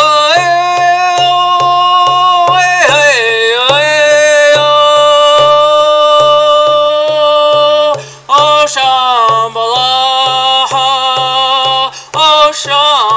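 A Native American-style spiritual song: a man's voice sings long, wordless held notes that slide between pitches, over a steady low drumbeat of about three beats a second. The voice dips and breaks off briefly about three seconds in, about eight seconds in and near the end.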